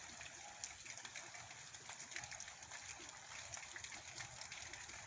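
Steady rain falling, a constant hiss with many individual drops striking close by as scattered sharp clicks.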